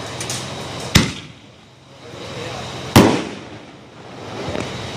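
Fireworks display: two loud bangs of aerial shells bursting, about a second in and two seconds later, each trailing off briefly, with fainter pops near the start and end.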